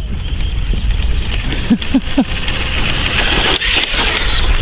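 SkyRC SR5 electric RC dirt bike running off-road: its brushless motor and tyres make a hissy whir that swells about three to four seconds in, over a steady low rumble.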